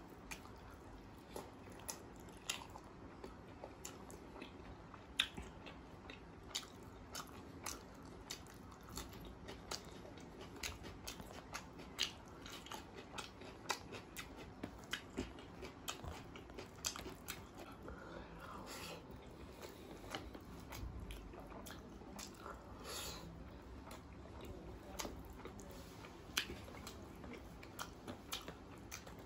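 Close-miked, wet chewing of rice and paneer curry, with many sharp mouth clicks and smacks at irregular intervals.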